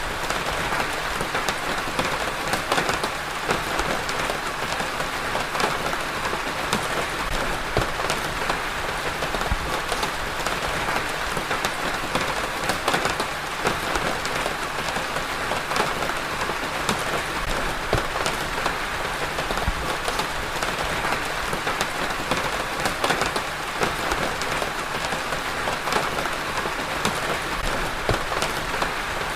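Steady rain falling on a surface, a dense even patter of many drops with no letup.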